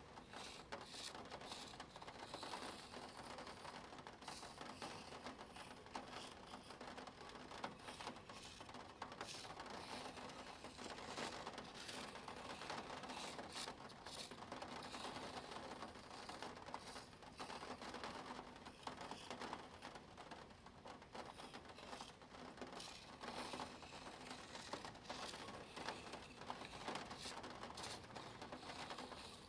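A Spirograph set in use: a pen drawing on paper while a plastic gear wheel is rolled around its ring. It makes a faint, steady scratching with many small clicks.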